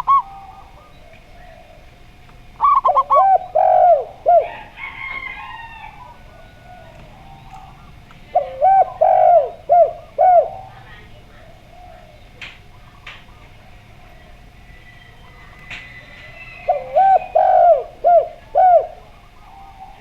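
Zebra dove (perkutut) cooing: three phrases of quick, bubbling staccato coos a few seconds apart, with a faint steady hum underneath.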